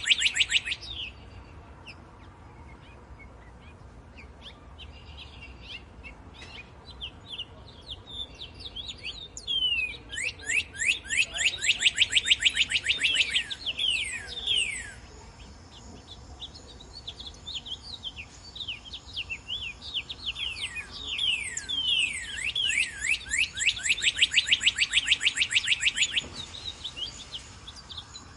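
Northern cardinal singing: rapid runs of clear, down-slurred whistled notes, several a second, in two long bursts about ten and twenty seconds in, with softer scattered chirps between them.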